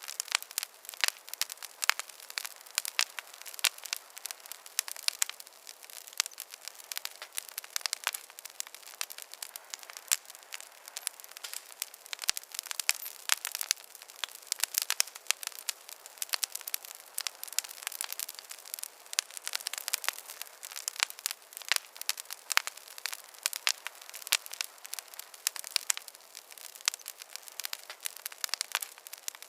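Wood fire crackling in a fireplace: a dense run of sharp, irregular pops and snaps over a soft steady hiss.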